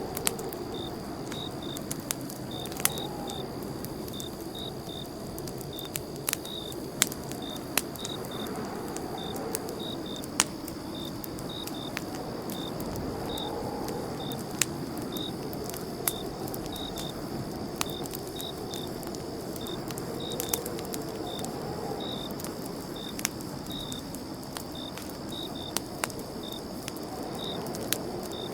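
Campfire burning: irregular sharp crackles and pops over a steady low rush of flames. A high, short chirp repeats evenly about twice a second throughout.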